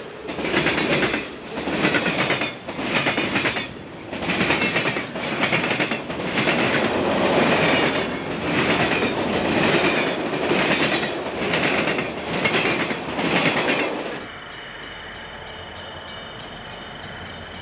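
Freight cars of a passing train, lumber-loaded centerbeam flatcars and covered hoppers, rolling by close. The wheels rumble and clatter over the rail joints in loud surges about once a second. About 14 seconds in, the sound cuts to a quieter steady hiss with a faint high tone.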